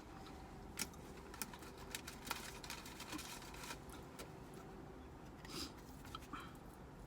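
Close-up eating sounds as homemade soup is eaten: sharp mouth and utensil clicks and smacks, scattered irregularly. Underneath is a low, steady rumble of distant highway traffic through the open car windows.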